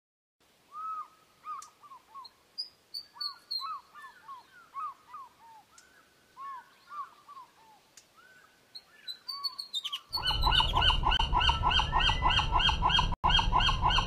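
Osprey calling: a series of short, whistled chirps. About ten seconds in it breaks into a much louder, faster run of repeated chirps over a low rumble.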